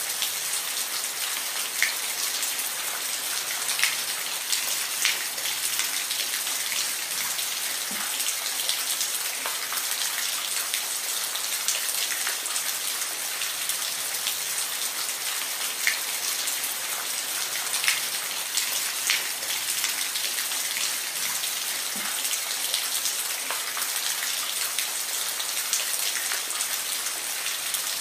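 Steady rain falling, an even hiss with distinct individual drops ticking on a surface every second or so.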